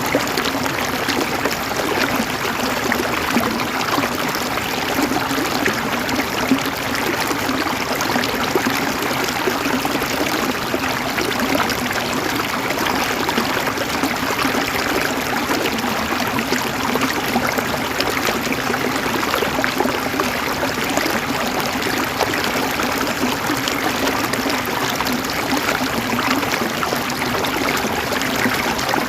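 River water flowing and gurgling over stones, a steady even rush with no let-up.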